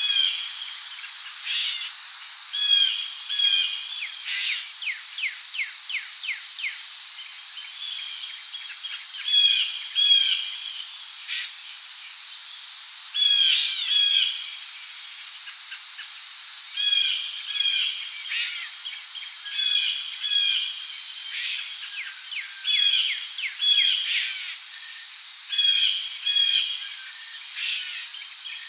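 Rainforest ambience: a steady, high drone of crickets, with birds calling over it in short, repeated paired notes every second or two, and a quick run of downward-sweeping notes about five seconds in.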